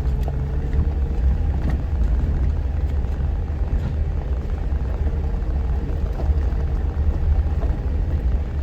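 Jeep engine running at low speed as it crawls over a rough off-road trail section, heard from inside the vehicle as a steady low drone, with a few light knocks.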